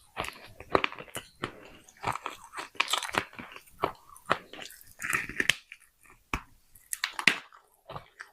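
A person biting and chewing pieces of baked clay pot: a run of irregular, sharp crunches and grinding chews, with a short pause about six seconds in.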